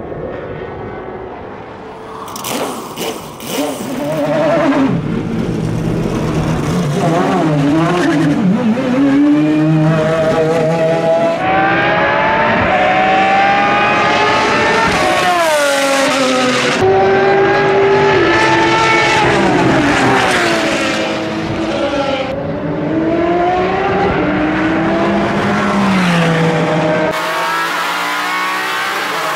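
The Pagani Zonda Revolucion's 12-cylinder AMG Mercedes engine running hard on a race track. Its note climbs and drops over and over as it revs out and changes gear. Near the end it is heard from inside the cockpit.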